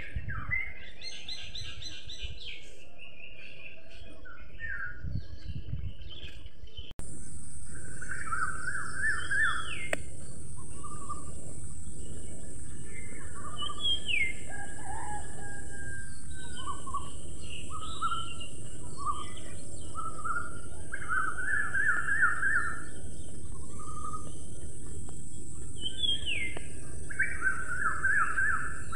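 Several birds chirping and singing in short repeated trills over a steady background hiss. About seven seconds in, the sound cuts out for an instant and a new stretch of birdsong follows, with a steadier hiss under it.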